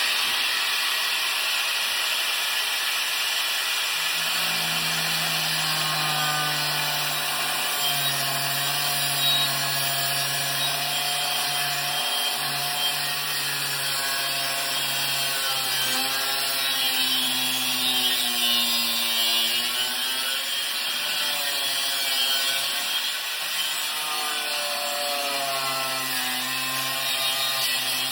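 Small angle grinder running and cutting through scrap metal, a steady grinding hiss. Its motor tone wavers and dips as the disc bites under load, then recovers.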